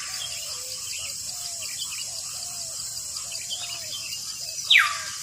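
Birds calling in a rural morning soundscape over a steady high insect drone. There is a run of short repeated chirps throughout, and near the end comes one loud call that sweeps down in pitch.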